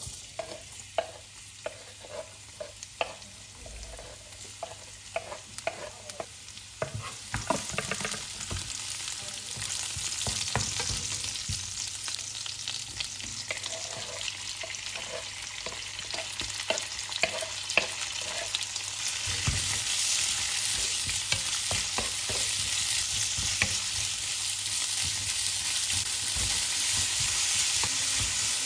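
Minced garlic, chillies and sliced pork sizzling in oil in a nonstick frying pan, with a wooden spatula tapping and scraping as food is pushed in and stirred. The first seconds hold separate taps over a faint sizzle. The sizzle then grows louder about seven seconds in, and again past the middle.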